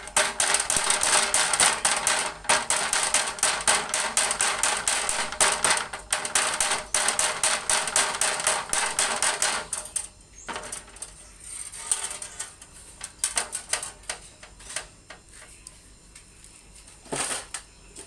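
Rapid metallic clicking and tapping as a tool works the aluminium pipe joint around the fridge's capillary tube to close it up tight, dense for about ten seconds, then slower scattered taps and a couple of separate knocks near the end.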